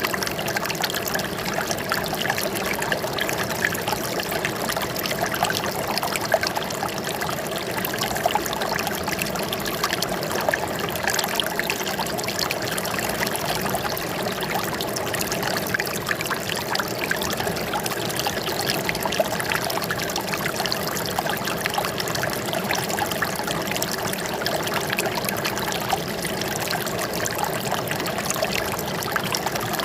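Running water trickling and splashing steadily, a dense babble of small splashes without pause.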